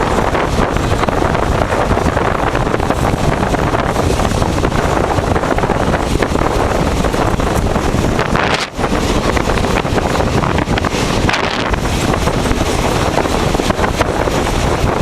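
Passenger train running at speed: a loud, steady rush of wheel and wind noise, with wind buffeting the microphone. The noise dips briefly a little under nine seconds in.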